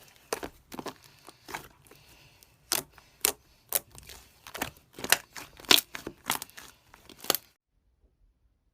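Slime being squeezed and pressed, giving a quick irregular run of sharp clicks and pops that cuts off abruptly near the end.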